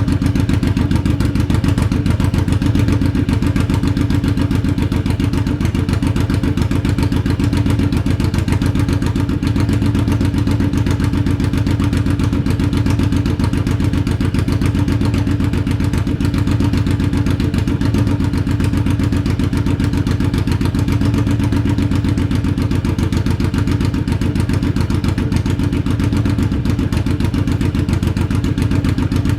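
2008 Suzuki C109R's V-twin idling steadily through Hard Krome 3-inch straight-pipe exhausts, a loud, even run of firing pulses with no revving.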